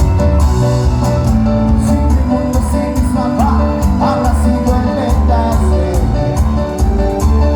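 A band playing loud music with a heavy bass line, sustained melodic notes and a steady beat of cymbal hits.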